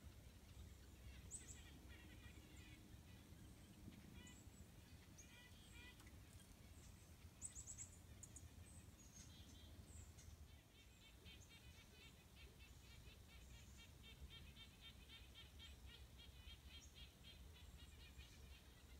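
Faint wild bird calls: scattered short high chirps, then a long run of rapid, evenly repeated notes from about halfway through, over a low steady outdoor rumble.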